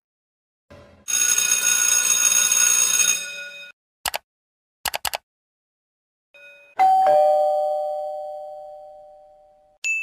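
An electric school bell rings continuously for about two and a half seconds. Then a computer mouse clicks once, and again in a quick double click. Last, a two-tone ding-dong doorbell chime sounds, high note then low, and fades away slowly.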